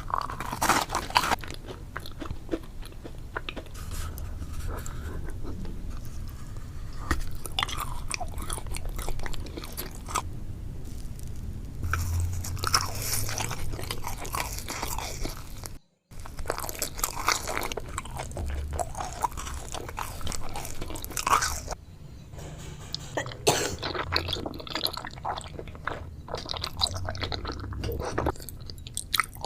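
Close-up eating sounds: crunchy bites and chewing of food, dense crackling over a low background, broken by a sudden brief dropout about halfway through.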